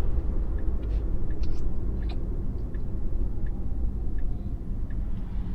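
Steady low road and tyre rumble inside a Tesla's cabin while driving, with faint short ticks repeating about every half second.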